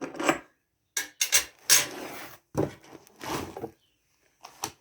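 Small metal engine parts being handled and fitted back in, a string of short clinks and scrapes.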